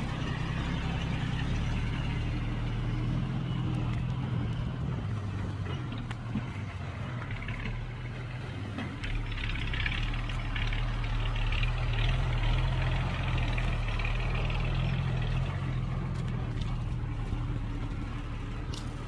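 Heavy diesel engines of earthmoving machines running steadily, a low drone that swells a little about halfway through.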